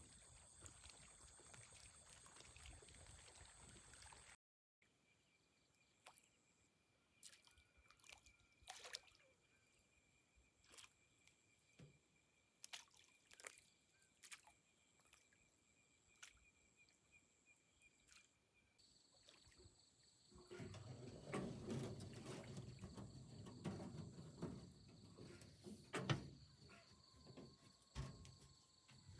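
Quiet night water ambience: insects calling in steady high thin tones, with scattered drips and small ticks, and water sloshing more loudly in the last third.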